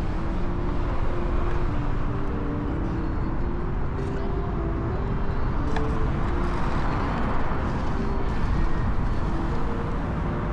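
Wind rushing over the microphone and road noise during a ride on a Kugo Kirin U2 electric unicycle. Short, faint whining tones step up and down in pitch.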